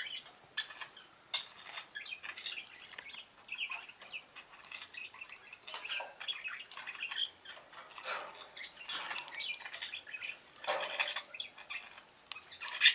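Budgerigars chirping and chattering in short scattered calls, with small clicks of beaks pecking at seed in the feeders.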